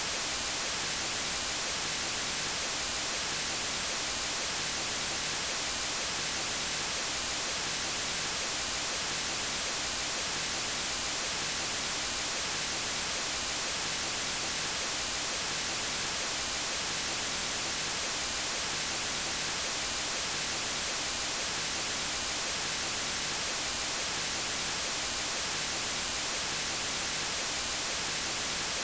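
Steady synthetic white noise: an even, unbroken hiss, brightest in the treble, with no change throughout.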